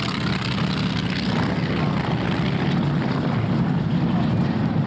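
North American T-6 Texan trainers with radial piston engines flying past in formation, a steady propeller drone.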